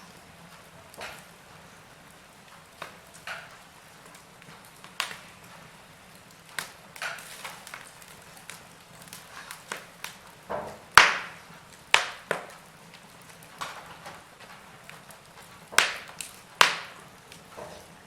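Wood fire burning in a fireplace, logs crackling with irregular sharp pops and snaps over a soft steady hiss, the loudest pops coming in the second half.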